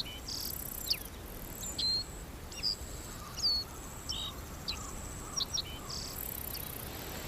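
Summer forest ambience: short bird chirps and whistles, some sliding down in pitch, repeating every second or so, over a steady high-pitched insect drone.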